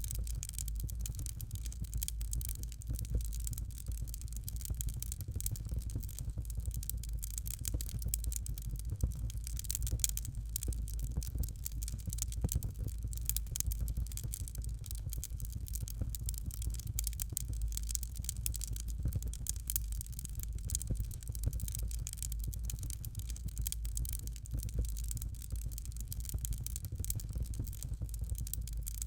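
Fire crackling in a fireplace: a continuous run of quick small crackles over a steady low rumble.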